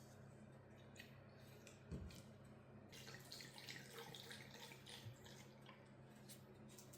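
Faint water trickling for a couple of seconds around the middle, after a soft knock, over a low steady hum.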